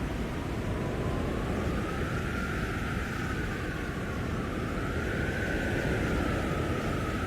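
Blizzard wind blowing hard: a steady low rumble of gusts with a high howling whistle above it that slowly rises and falls in pitch.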